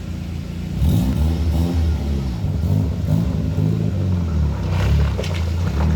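Donkervoort D8 sports car's Audi engine running steadily, then from about a second in revving louder, its pitch rising and falling several times.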